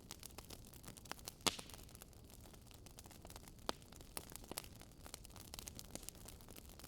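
Campfire crackling: irregular sharp pops and snaps of burning firewood over a faint steady hiss, the loudest pop about one and a half seconds in.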